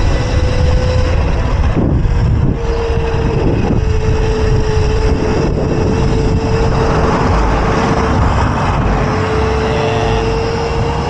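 Electric mini bike's motor running with a steady whine, dipping briefly a few times as the throttle eases, over heavy wind rumble on the microphone while riding.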